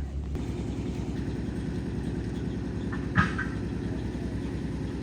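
An engine idling steadily with a fast, even low pulse, and one short sharp click a little past three seconds in.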